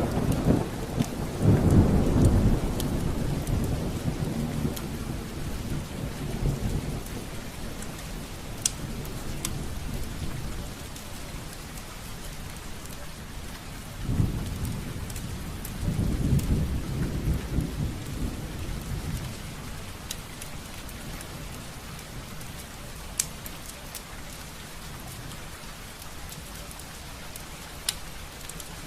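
Steady rain with low, rolling thunder, loudest just after the start and again about halfway through. Scattered sharp crackles of a wood fire sound over the rain.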